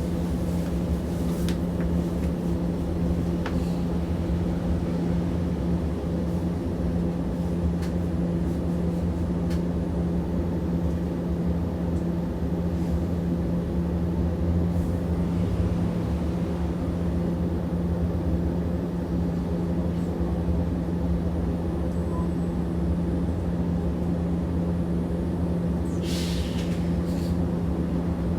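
Cabin sound of a Hiroshima Electric Railway 650-type streetcar: a steady low hum over a rumble, unchanging throughout, with a short clatter near the end.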